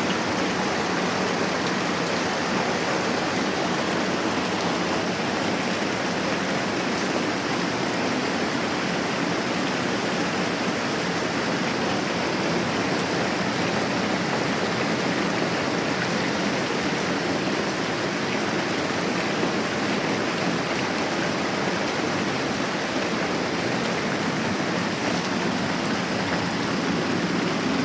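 Moderate rain falling steadily, an even hiss that holds without change.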